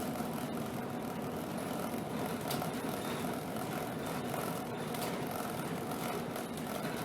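2013 Alexander Dennis Enviro 200 bus running, heard from inside the bus: a steady engine and road noise with a few light clicks.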